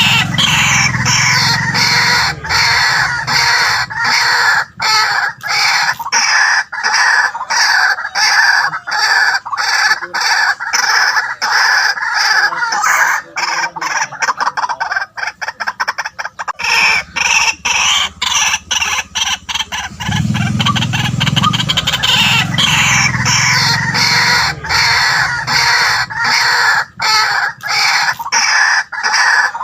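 White-breasted waterhen calling without pause, a fast run of harsh repeated croaking notes, with a low drone underneath near the start and again about two-thirds of the way through.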